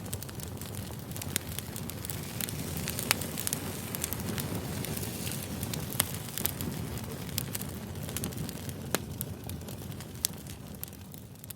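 Campfire crackling: a steady low rush of burning wood with frequent sharp pops and snaps.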